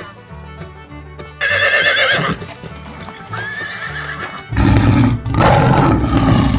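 A horse neighing over background music with a steady beat: a wavering whinny about a second and a half in, a fainter one after it, then a louder, rougher call near the end.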